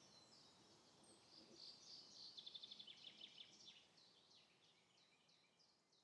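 Faint birdsong: small birds chirping in short high calls, with a fast trill about two to three seconds in, fading out toward the end.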